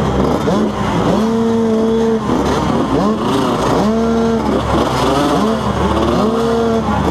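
Several motocross bikes' engines revving, overlapping one another: pitch climbs, holds steady briefly, then drops, over and over as the bikes accelerate and back off.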